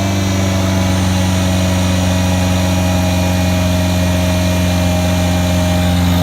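Rebuilt Ford LRG-423 2.3-litre four-cylinder engine idling steadily just after starting. It keeps running only because a held button feeds power to its distributorless ignition: something in its control circuit shuts it down otherwise.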